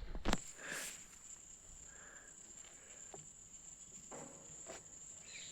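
An insect, a cricket-like chirrer, trilling steadily at a high thin pitch. A sharp click sounds about a quarter second in, and a few faint knocks follow around four seconds in.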